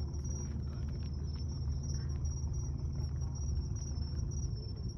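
Insects chirping in a steady, fast-pulsing high trill over a low background rumble.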